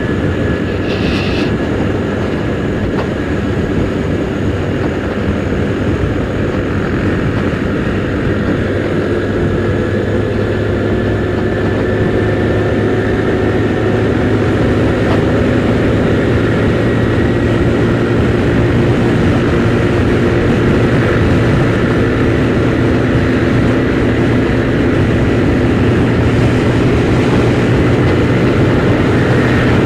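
Kymco Super 8 scooter engine running under way, heard through a helmet-mounted camera with wind rushing over it. The engine note rises slowly and grows a little louder over the second half.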